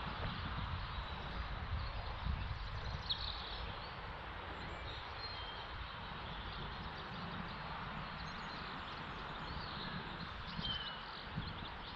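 Open-air ambience: steady wind rumble on the microphone, with a few short bird chirps, once about three seconds in and again near the end.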